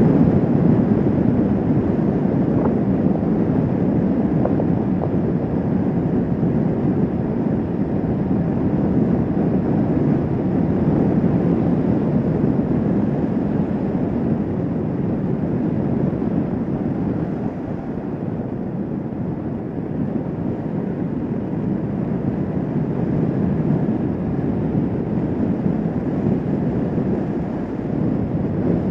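Kawasaki Vulcan S 650 motorcycle cruising at speed: steady wind rush over the microphone mixed with engine and road noise.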